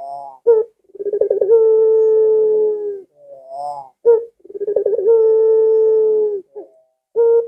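Puter dove cooing: two long, level coos of about two seconds each, each opened by a short quavering note, with brief quieter notes between them.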